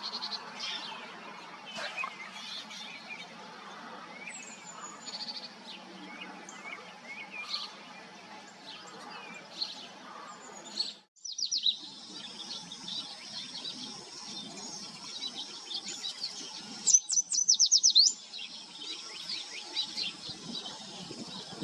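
Birds chirping and calling: scattered short high chirps and quick pitch glides over a steady low background hum, with a break about halfway through. Near the end a rapid run of about a dozen sharp, loud chips lasts roughly a second.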